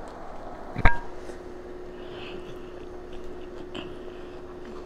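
A person biting into and chewing a crisp romaine lettuce wrap, with one sharp click about a second in and a steady hum underneath.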